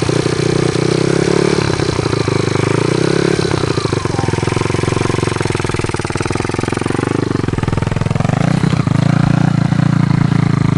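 Small dirt bike engine running under throttle. Its revs drop about two seconds in, then dip and climb again near the end as the throttle is worked.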